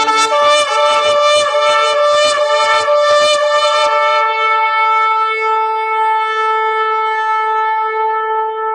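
Ram's horn shofar blown: a quick run of short, broken blasts for about the first three and a half seconds, then one long steady note held to the end.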